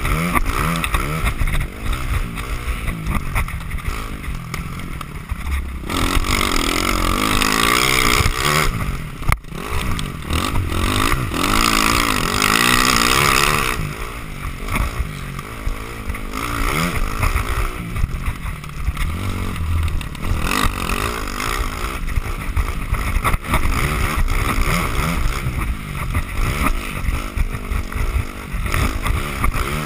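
Dirt bike engine revving up and down through the gears, with sharp knocks from the bike going over bumps.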